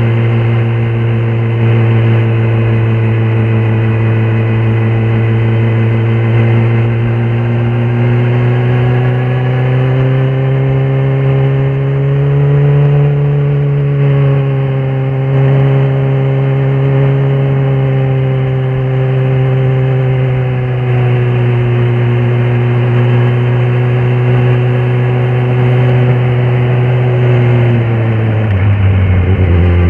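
Kawasaki ZX-10R SE's inline-four engine running at a steady cruising pace, its note rising slightly midway and easing back. Near the end the pitch drops quickly to a lower steady note.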